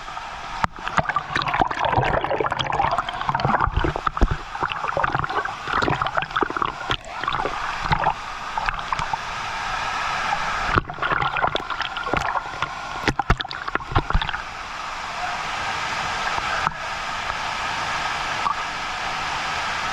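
Rushing, gurgling water of a waterfall pool, churning and uneven, with many sharp knocks and bumps through it.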